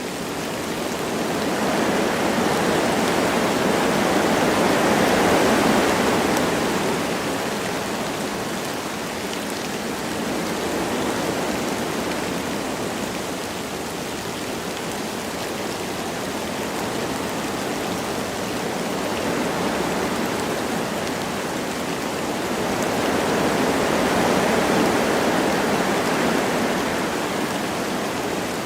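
Wind blowing through forest trees with light rain, a steady rushing that swells into two gusts, one a few seconds in and one near the end.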